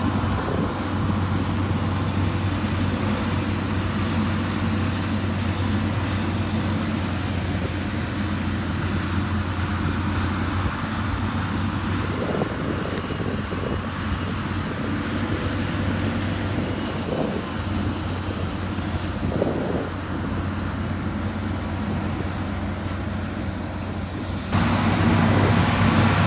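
Heavy diesel machinery engine running steadily under load, with faint scraping in the middle; it jumps suddenly louder near the end.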